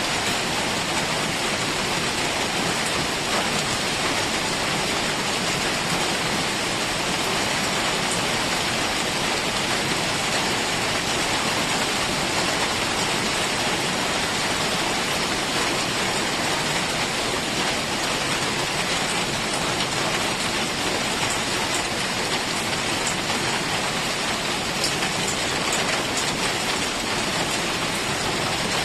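Heavy rain falling steadily, an even, unbroken hiss of countless drops.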